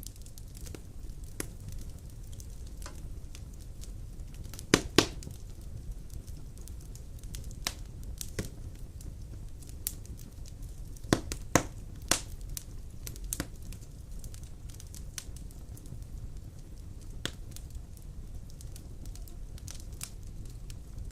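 Wood fire burning in a fireplace: a steady low rumble of flames with irregular sharp crackles and pops, the loudest a few seconds in and again around the middle.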